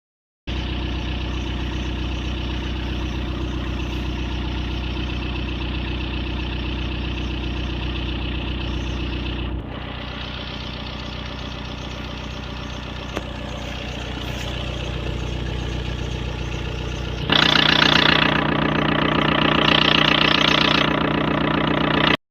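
Škoda Fabia 1.9 SDI naturally aspirated four-cylinder diesel running steadily at idle on a cold start, at about −1.5 °C. The sound drops a little in level about ten seconds in, becomes louder and harsher about seventeen seconds in, and cuts off abruptly near the end.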